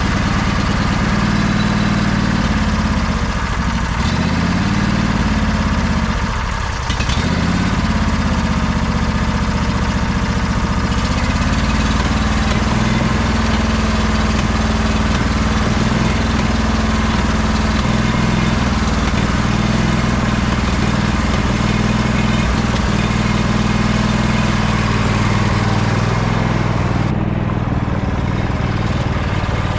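Sabre by John Deere lawn tractor engine running steadily on almost full choke, a sign it needs its carburetor cleaned. Its note dips and recovers a few times between about three and seven seconds in.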